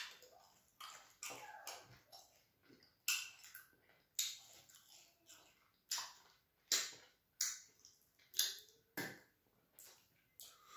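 Close-miked mouth sounds of a person eating soft fufu with soup: chewing with a string of sharp, wet lip smacks and clicks, about a dozen at irregular intervals.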